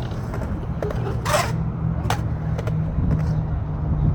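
Skateboard wheels rolling on concrete with a steady low rumble. A short scrape comes about a second in, and a few sharp clicks follow.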